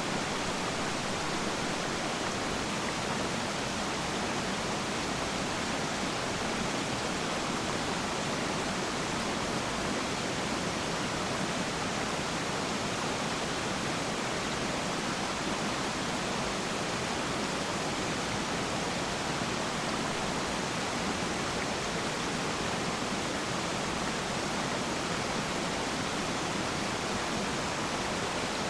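Waterfall: falling water rushing in a continuous, even hiss that does not change.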